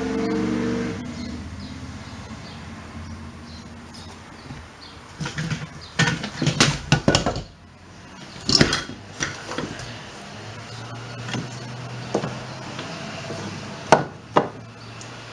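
Hammer blows on wooden framing: a quick run of strikes about five seconds in, another cluster around nine seconds, and two sharp knocks near the end. A low engine-like hum fades out at the start.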